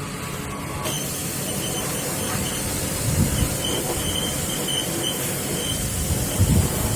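Power jet pump running and spraying water, a steady hissing rush with a couple of low thuds about three seconds in and near the end.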